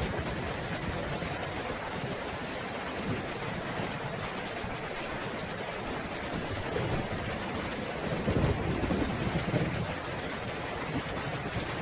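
Steady rain falling, with a low roll of thunder swelling up about two-thirds of the way through and fading again near the end.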